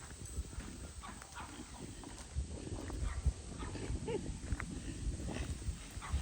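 Donkeys moving about outdoors: scattered hoof steps and small knocks and rustles over a steady low rumble.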